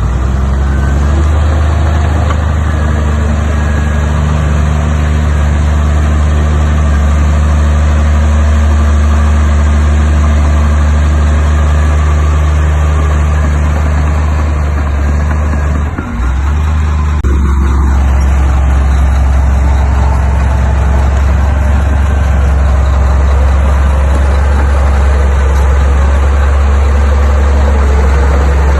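Heavy diesel engine of earthmoving machinery running steadily with a deep hum. About 16 seconds in it dips briefly and comes back at a slightly different pitch.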